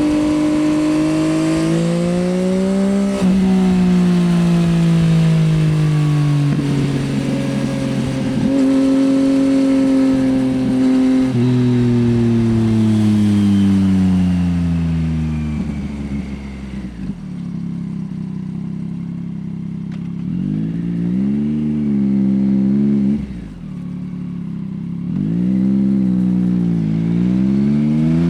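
2024 Yamaha XSR900's inline-three engine through an Akrapovič Racing Line exhaust under way. The revs climb through about three upshifts, then fall steadily as the bike slows. After that come quieter rises and falls of the revs near the end.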